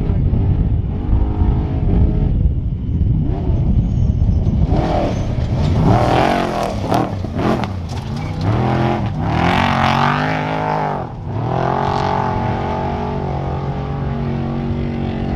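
Trophy truck engine revving hard off-road, its pitch climbing and dropping several times as the throttle opens and closes, then settling into a steadier lower note near the end.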